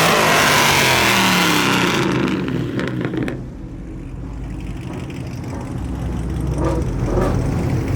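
A car engine revving hard as the car accelerates, loud for the first couple of seconds, then falling away about three seconds in to a lower, steady engine rumble.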